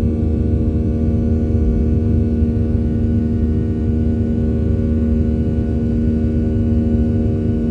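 Boeing 737's CFM56 turbofan engines at high power during takeoff, a steady loud drone with a strong even hum over a low rumble.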